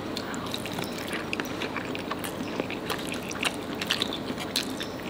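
Close-miked wet chewing of rice soaked in curry gravy, with many small mouth clicks and smacks.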